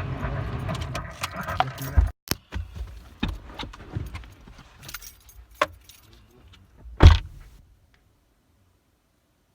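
Car cabin rumble that cuts off abruptly about two seconds in, followed by scattered clicks, rattles and knocks of handling, with one loud knock about seven seconds in, then dead silence.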